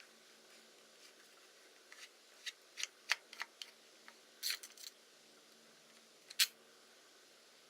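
A run of small, sharp clicks and taps, about a dozen spread irregularly over a few seconds, from camera equipment being handled; the loudest come about four and a half and six and a half seconds in.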